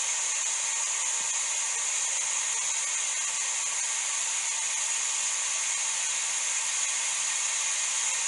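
A steady, even hiss like static or white noise, constant in level throughout.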